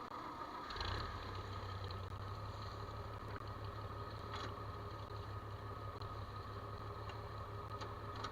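A farm machine's engine running steadily at a low pitch, coming up about a second in, with a few faint clicks over it.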